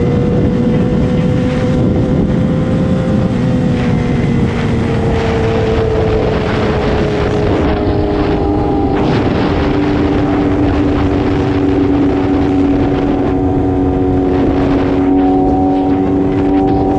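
Sport motorcycle's inline-four engine running at high revs while riding, with wind rush. Its pitch holds for a few seconds, then drifts slowly lower and settles.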